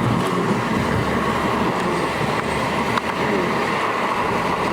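Steady rushing noise of strong wind.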